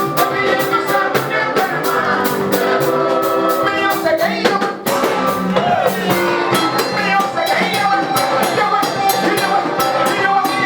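Live gospel praise music: a band with drum kit playing a steady beat under singing, with a brief break a little before halfway.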